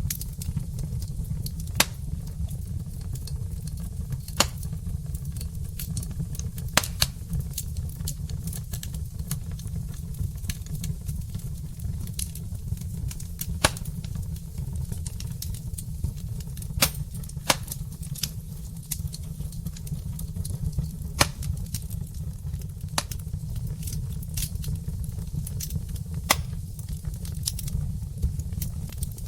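Wood fire burning in a brick hearth, crackling with sharp, irregular pops every second or two over a steady low rumble of the flames.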